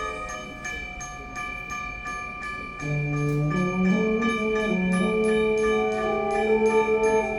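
Concert band playing: mallet percussion strikes a steady repeated pattern over held high notes, and about three seconds in lower wind instruments come in with sustained notes that step upward.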